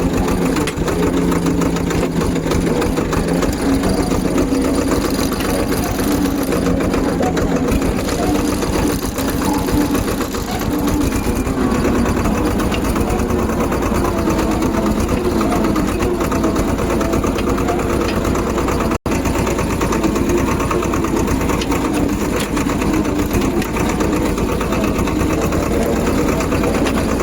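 Small diesel tractor engine running steadily with a fast clattering rattle, with a split-second drop-out about two-thirds of the way through.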